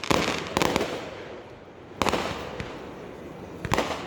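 Fireworks going off: a sharp bang at the start, another about half a second later, one at two seconds and a pair near the end, each fading out in a noisy tail.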